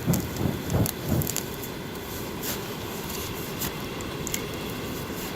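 Campfire crackling with scattered sharp pops over a steady low rush. A few soft thuds come in the first second.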